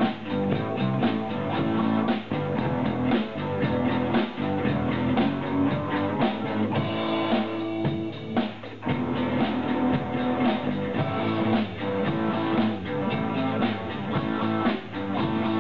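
Live rock band playing: electric guitar with bass and a drum kit.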